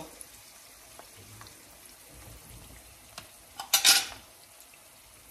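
Wontons frying in shallow hot oil in a skillet, a faint steady sizzle. About four seconds in, a short clatter of a metal fork against a plate.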